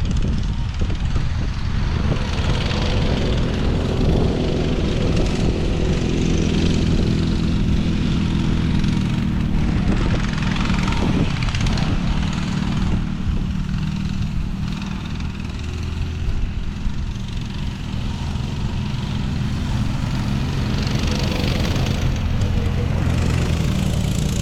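Small off-road vehicle engine running steadily under way, its pitch drifting a little with the throttle, with wind noise over the microphone.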